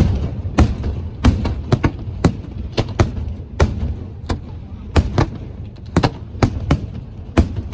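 Fireworks display: aerial shells bursting in an irregular string of sharp bangs, about two a second, over a steady low rumble.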